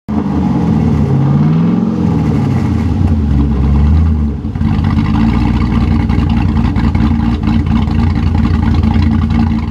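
2006 Saleen Mustang GT's cammed 4.6L three-valve V8 exhaust, revving up and back down near the start and then idling steadily from about halfway through.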